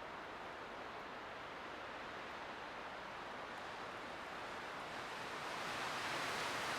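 Light winter wind blowing as a steady rushing hiss, swelling into a stronger gust near the end.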